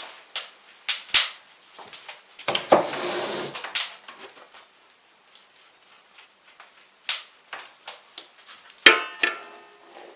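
Scattered clicks and knocks of objects being handled, with a rough scraping, rustling burst about two and a half seconds in. Near the end comes a sharp knock with a short ringing tone after it, like a hard metal or ceramic item being set down.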